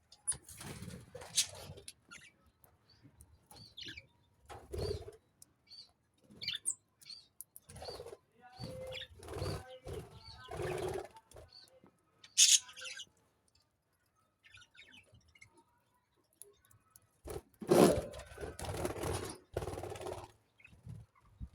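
Caged pet parrots and budgies chirping and calling, with wing flutters, in irregular bursts and a pause of a few seconds past the middle.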